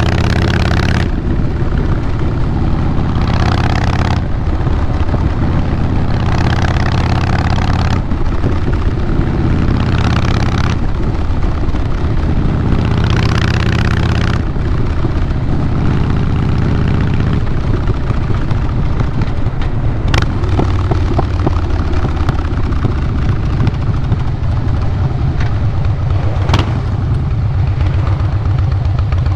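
Harley-Davidson Fat Boy Lo's Twin Cam 96B V-twin running under way through Vance & Hines Big Radius 2-into-2 exhaust pipes, a loud, deep exhaust note. In the first half, rushes of hiss come and go every few seconds; later the engine settles into a steadier, even beat, with a couple of sharp clicks.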